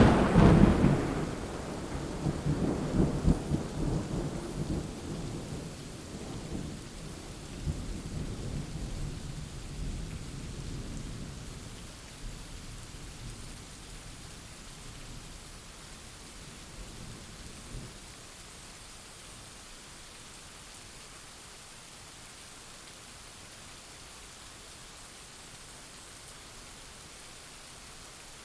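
Thunder cracks loudly right at the start, then rolls and rumbles, fading away over about eighteen seconds. Steady rain falls throughout and is all that remains afterwards.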